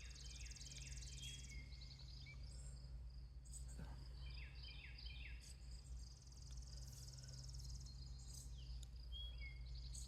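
Small birds singing: two runs of quick, falling chirps, one near the start and one about four seconds in, with a few whistled notes between. A high, fast-pulsing trill comes and goes above them, over a steady low hum.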